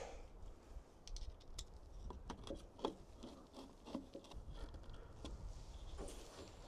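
Faint scattered clicks and scrapes of a screw being fitted into the plastic hatch trim, with no power-tool motor running.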